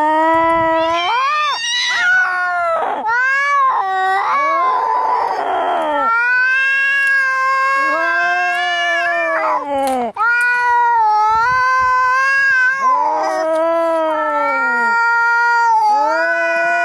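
Angry cats yowling in a fight: a run of long, drawn-out yowls that waver and bend in pitch, one after another, with a harsh hiss about five seconds in.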